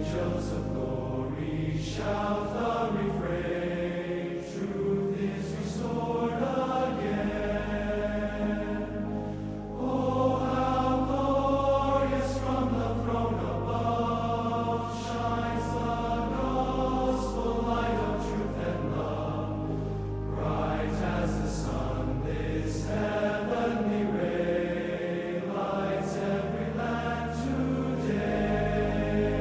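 Choral music: voices singing sustained chords over a held low drone.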